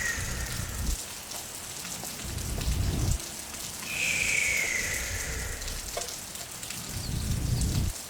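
Recorded rain ambience: steady rain hiss with low rumbles of thunder, and a short whistle-like tone falling in pitch about four seconds in, recurring every four to five seconds as in a loop.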